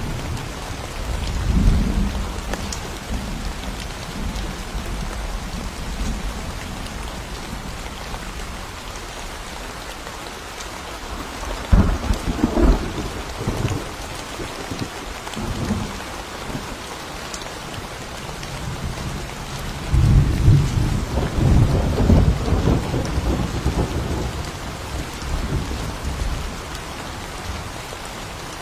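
Steady rain falling through a thunderstorm, with thunder rumbling several times. There is a low roll early on, a sharp crack about twelve seconds in, and the longest, loudest rumble a little past the middle.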